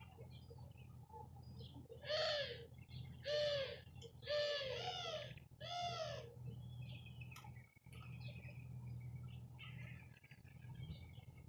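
Birds calling: four loud, drawn-out calls, each rising and falling in pitch, come about a second apart in the first half. Softer, higher chirps follow in the second half, over a steady low hum.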